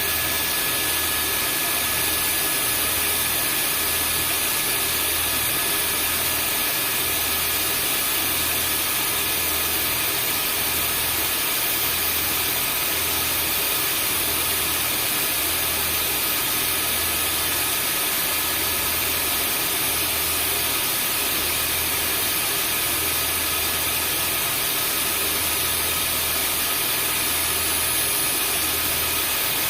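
Vacuum cleaner running steadily: an even rushing hiss with thin, steady high whining tones from the motor and a low hum that wavers underneath.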